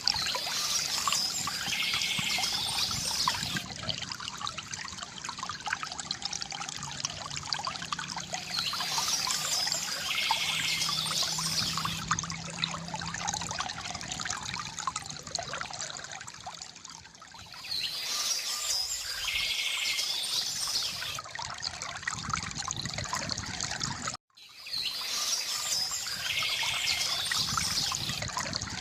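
River water gurgling and trickling steadily, with small birds chirping in clusters that come back about every eight seconds. The sound drops out briefly near the end.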